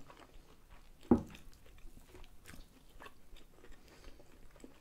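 Close-up eating sounds: soft chewing and small wet mouth clicks from people eating rolled pancakes filled with curd cheese, dipped in sour cream. One sharp thump about a second in, louder than anything else.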